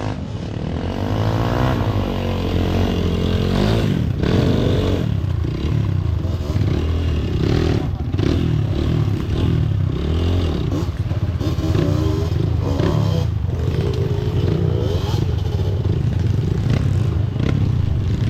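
Kawasaki KLX dirt bike's single-cylinder four-stroke engine running under load on a climb, its revs rising and falling.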